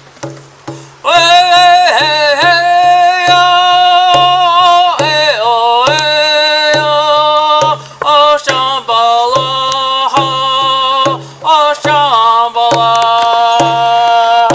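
A man singing a Native American–style spiritual chant in long held notes that slide between pitches. It comes in about a second in, with short breaks for breath. Under it is a steady drumbeat of about two beats a second.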